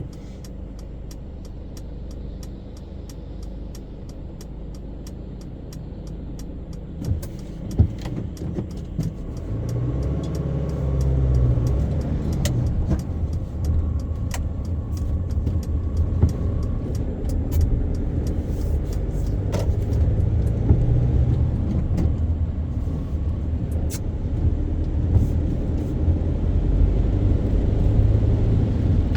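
Car driving in city traffic: a steady low engine and road rumble that gets louder about ten seconds in, with scattered sharp ticks throughout.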